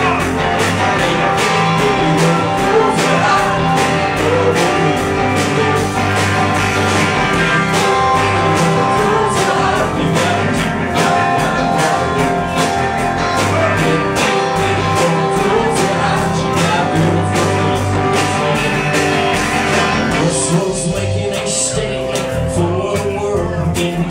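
Indie rock band playing live, a passage without lyrics: electric guitars and bass over a steady drum beat. About twenty seconds in the drums drop out, leaving held guitar notes ringing.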